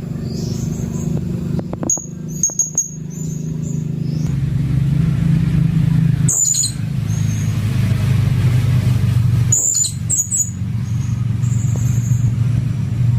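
Blue-crowned hanging parrot (serindit) giving short, sharp, very high-pitched calls in four brief clusters. A loud, steady low hum runs underneath.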